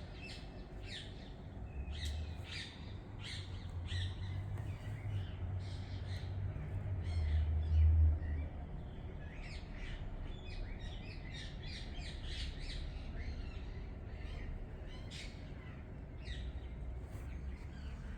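Birds chirping and calling outdoors in many short, repeated calls. A low rumble swells a few seconds in and peaks near the middle, then fades.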